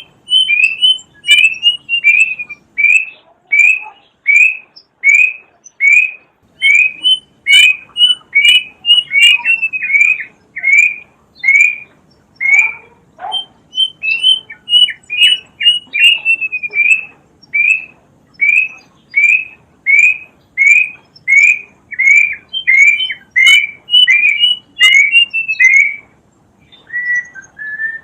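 Kedasih cuckoo calling: a loud whistled note repeated about once every 0.7 s. Three times it breaks into a quicker run of notes that step down in pitch, and the calling stops about two seconds before the end.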